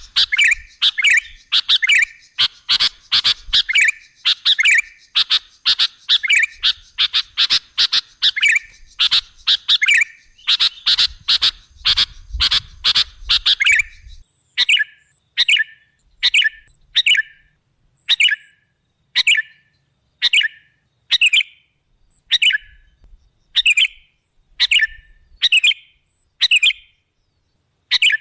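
Sooty-headed bulbul (kutilang) calling: a fast, dense run of chirps, changing about halfway through to single short calls repeated about once a second.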